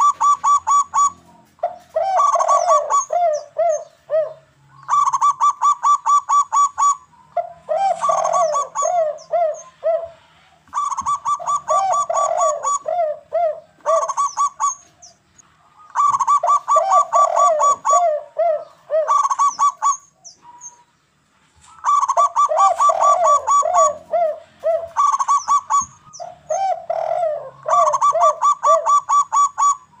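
Zebra doves (perkutut) and spotted doves (derkuku) calling in repeated bouts of a second or two. Each bout is a rapid string of short, ringing notes, alternating with lower, falling cooing notes, with brief pauses between bouts and a longer one about two-thirds through.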